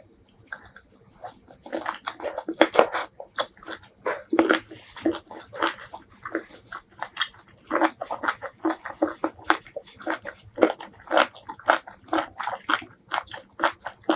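Close-miked eating sounds of a person chewing spicy braised seafood: wet, sticky mouth smacks and bites, several a second, starting sparse and picking up after about two seconds.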